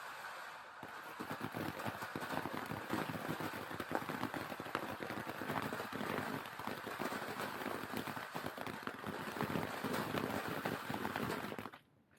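Ground fountain firework spraying: a steady hiss thick with fast crackles, swelling about a second in and cutting off suddenly near the end.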